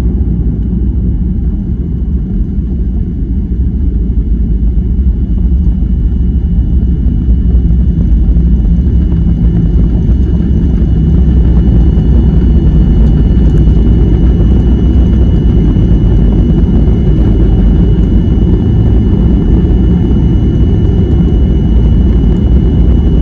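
Airliner cabin noise heard from inside the cabin: a steady low rumble from the engines and airframe, with a thin steady high whine over it. It grows a little louder about ten seconds in, then holds.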